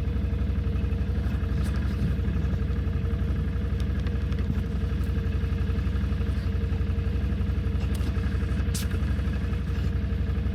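Can-Am ATV engine idling steadily, with a brief sharp click about nine seconds in.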